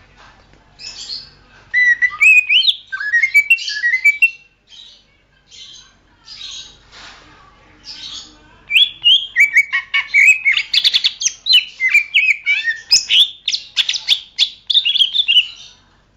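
Cucak ijo (green leafbird) singing: rapid runs of clear whistled notes sliding up and down, a short phrase about two seconds in and a long one from about nine seconds until near the end, with scattered rasping chirps between.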